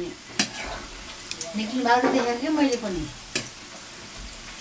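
Pork intestine frying in a pan with a steady sizzle, stirred with a few sharp scrapes of a utensil.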